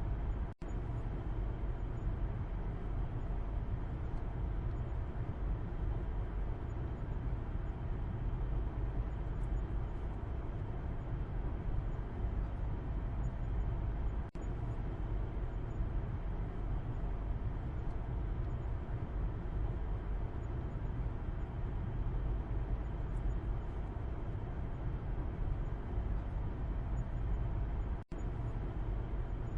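Steady low rumble of engine and road noise inside a moving car's cabin, heard from the back seat. The sound drops out for a split second about every fourteen seconds.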